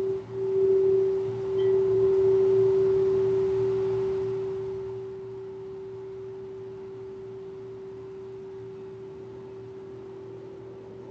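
Singing bowl ringing with one steady, pure tone. It pulses at first, swells to its loudest for a few seconds, then eases down to a quieter sustained ring.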